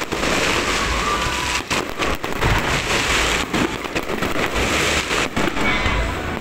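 Fireworks going off in a dense, continuous crackle like a long string of firecrackers, with a few brief breaks.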